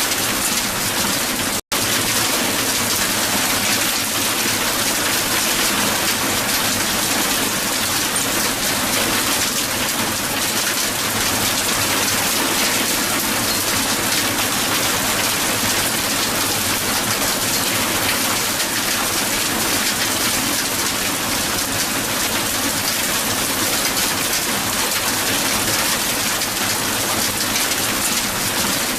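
Dense, steady hail pelting a hard surface: an unbroken patter of countless small ice impacts. About two seconds in it cuts out to silence for an instant, then carries on.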